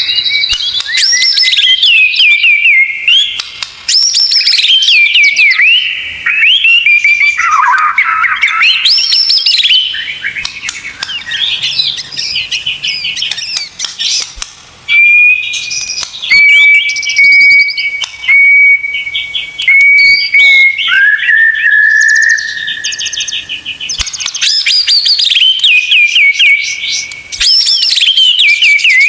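Songbird masteran recording for training white-rumped shamas: fast, varied whistled phrases, rapid trills and sweeping glides. In the middle there is a run of short, level whistles and one longer held note.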